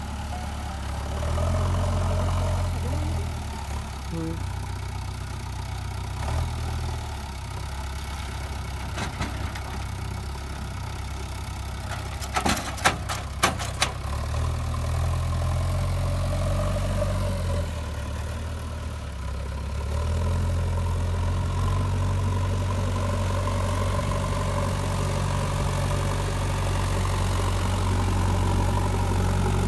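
JCB 3DX backhoe loader's diesel engine running, growing louder in stretches, with a few sharp clicks about halfway through.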